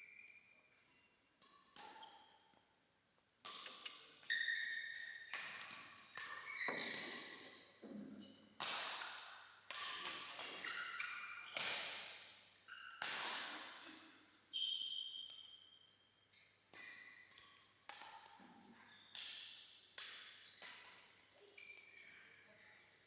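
Badminton rally: racket strings striking the shuttlecock about once a second, each hit ringing off in a reverberant hall. Short sneaker squeaks on the court floor fall between the hits, and the exchange is loudest through the middle.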